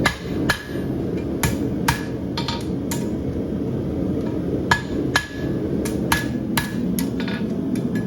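Hammer blows on a steel horseshoe over an anvil as the shoe is worked into a symmetrical shape. There are about a dozen irregular strikes, each with a short metallic ring, over a steady low rush.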